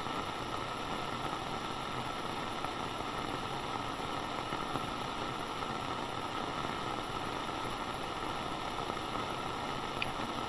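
Steady hiss of walkie-talkie radio static, even and unbroken, with no voice on the channel.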